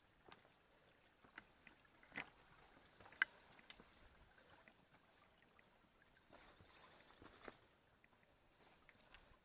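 Quiet outdoor ambience with scattered small clicks and knocks, one sharp click about three seconds in, and a short high-pitched rapid trill partway through.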